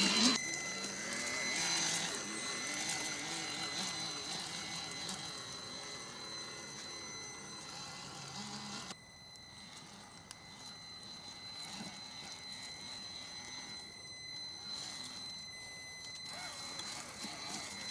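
Electric motor and gear drivetrain of a Vaterra Chevrolet Blazer K5 RC crawler running, a wavering whine over a steady high-pitched whine. The drive noise drops away sharply about nine seconds in, leaving a quieter whine.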